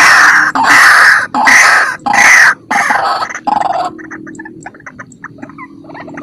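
White-breasted waterhen (ruak-ruak) calling: a string of loud, harsh notes about every half second, then, near the middle, a quieter run of short rapid notes at about four or five a second.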